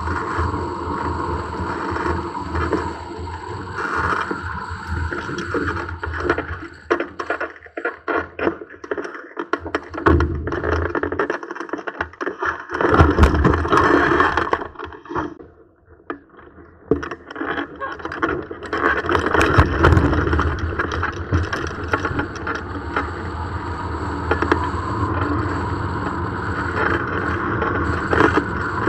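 Gusty wind rushing and buffeting over the microphone, rising and falling, with a choppy stretch of rapid gusts near the middle and a brief lull a little past halfway.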